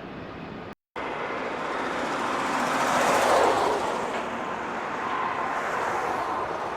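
Road traffic noise: a vehicle passes by, swelling to a peak about three seconds in and then fading. The sound cuts out completely for a moment about a second in.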